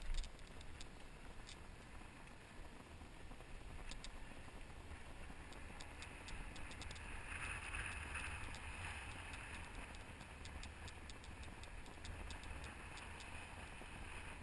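Helmet-mounted GoPro recording on the move: sharp, irregular clicks several times a second, the clicking the camera makes in its mount, over a low wind rumble, with a hiss that swells near the middle.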